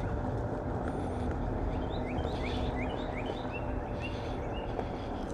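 Onewheel electric board riding along: a steady low rumble of wheel and wind with a faint, even motor whine. About two seconds in, a bird starts a run of quick rising chirps that lasts about three seconds.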